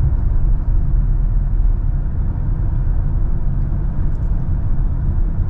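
Car driving along a patched, damaged road: a steady low rumble of engine and tyres.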